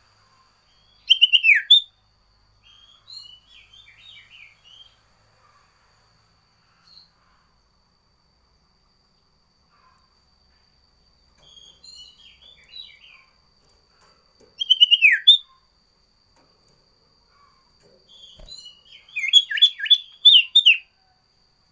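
Songbird of the kind Indonesian bird-keepers call sirtu singing: loud, sharp whistled notes that drop steeply in pitch, once about a second in, again about 15 s in, and in a quick run of several near the end, with soft twittering chatter between. A faint steady high-pitched whine runs underneath.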